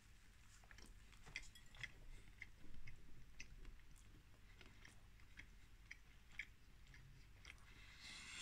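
A person chewing a mouthful of soft bread bun and sausage patty with the mouth closed: faint, irregular wet mouth clicks.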